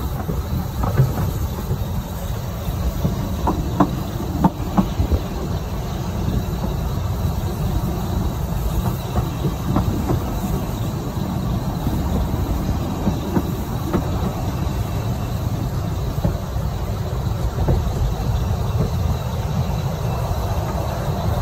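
Narrow-gauge train running: a steady low rumble of wheels on the rails, with a few sharp knocks a few seconds in and scattered clicks after.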